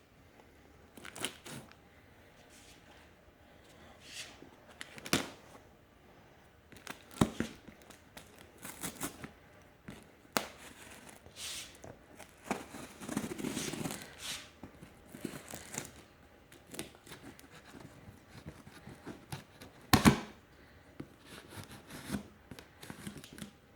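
A cardboard fireworks case being torn open by hand: cardboard and tape ripping, crinkling and rustling, with scattered knocks and thumps as the box and its contents are handled.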